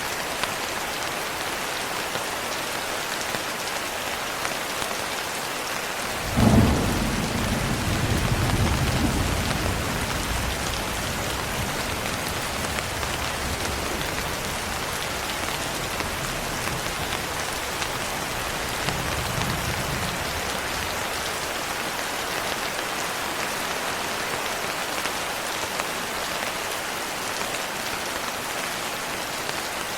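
Steady rain hissing throughout, with a clap of thunder about six seconds in that rumbles on for several seconds, and a fainter roll of thunder a little later.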